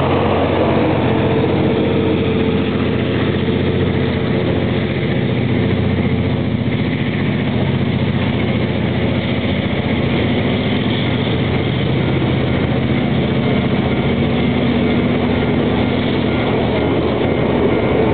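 An engine running steadily, a constant low hum with a few held tones.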